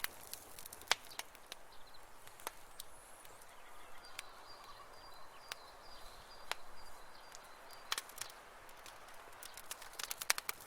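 Campfire crackling: irregular sharp pops and snaps over a soft hiss. A faint, high, evenly pulsed chirping runs for a few seconds in the middle.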